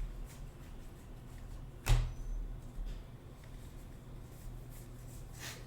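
A steady low hum with a single sharp tap about two seconds in and a few faint ticks, as cards are handled on a table.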